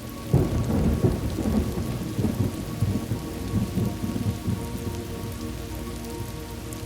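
Thunderstorm: steady rain with a sudden clap of thunder about a third of a second in, rumbling and fading over the next few seconds.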